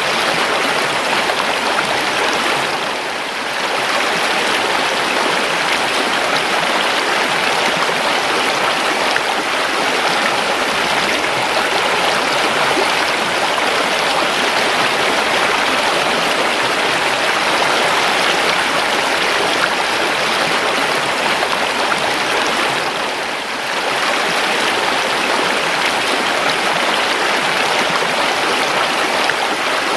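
River water flowing steadily over stones in a continuous rushing babble, with two brief dips in level, about 3 seconds in and again near 23 seconds.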